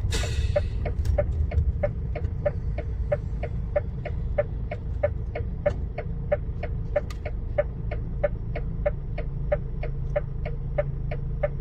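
Truck cab's indicator relay clicking evenly, about three clicks a second, over the low rumble of the idling diesel engine, with a short hiss right at the start.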